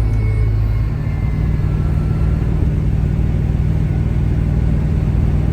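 A Chevelle's engine and exhaust running steadily with a low rumble as the car is driven.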